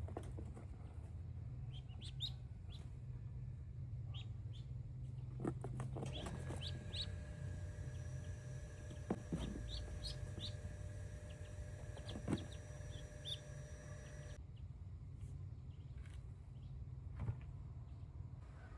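Domestic chickens clucking, with short calls scattered through.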